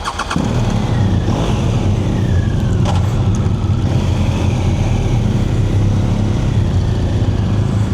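BMW R1200GS boxer-twin motorcycle engine running steadily, with a faint falling whistle about a second in and a short click near the end of it.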